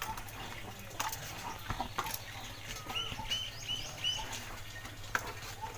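A small bird chirping four times in quick succession, with a few faint knocks and splashes of clothes being washed by hand in buckets.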